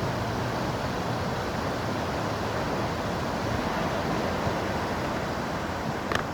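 Sea surf: a steady rush of waves breaking and washing on the beach. A short click comes just before the end.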